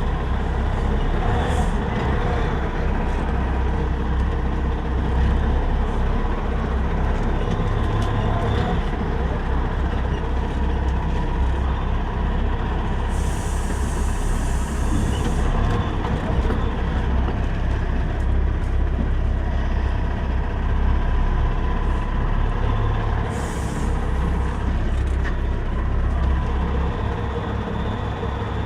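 Semi-truck running with a steady low diesel rumble. Air hisses out twice, a long hiss about 13 seconds in and a short one about 23 seconds in, typical of the truck's air brakes.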